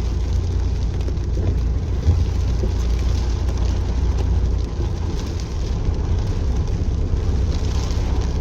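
Car driving along a flooded street, heard from inside the cabin: a steady low rumble of engine and tyres with a hiss above it, and a single knock about two seconds in.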